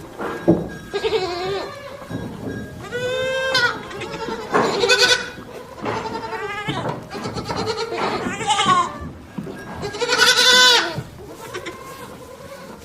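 Goats bleating: a string of separate wavering calls at different pitches, from more than one animal, the loudest about five and ten seconds in.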